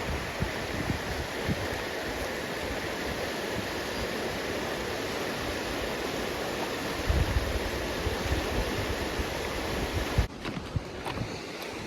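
Steady rush of flowing creek water, with wind buffeting the microphone in low gusts. The rushing drops away suddenly about ten seconds in.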